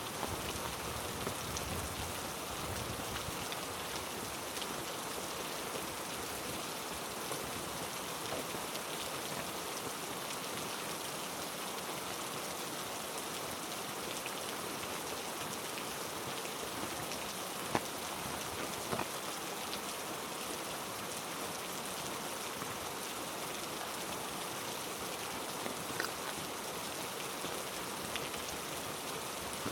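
Heavy rain falling steadily on rainforest foliage, an even hiss with a few sharper single drop impacts in the middle and one near the end.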